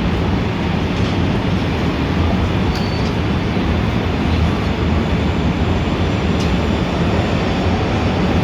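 Steady, dense city traffic rumble with a deep low drone, plus a few faint clicks and a brief high squeak about three seconds in.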